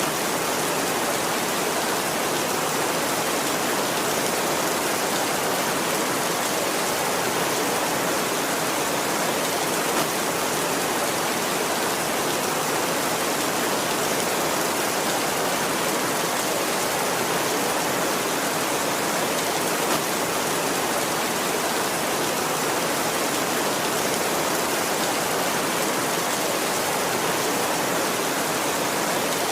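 Steady heavy rainfall: an even, unbroken hiss of rain with no thunder.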